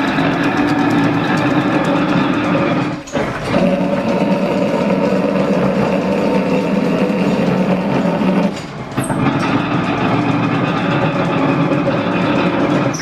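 Old machine-shop machinery running steadily, a drone with several steady tones, briefly dipping about 3 and 9 seconds in.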